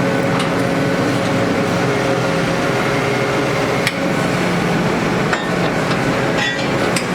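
Borehole drilling rig's engine running steadily, with a few sharp metallic clinks over it.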